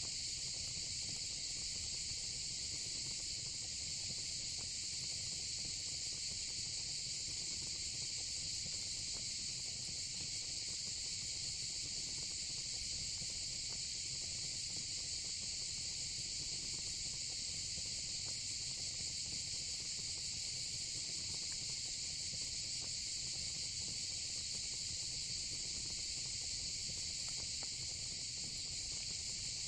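Steady insect chorus of crickets and cicadas: a constant high-pitched buzz that never breaks, over a faint low rumble.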